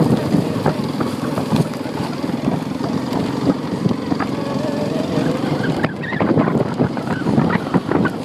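Honda quad bike (ATV) engine running as it is ridden along, with frequent knocks and rattles from the machine over the ground.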